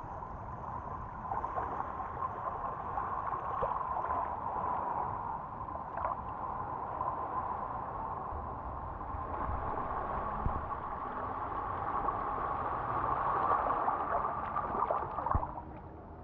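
Harbor water sloshing and lapping, a steady wash with small splashes that eases off just before the end.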